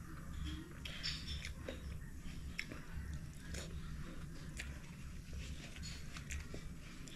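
Close-up chewing and mouth sounds of a person eating raw sea urchin (kina) roe, with many small scattered clicks over a low, steady hum.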